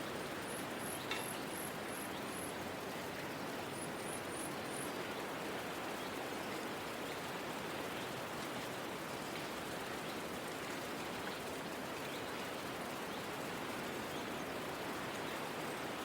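Steady outdoor background hiss, with a small bird's quick high chirps: a run of about five about half a second in and three more about four seconds in.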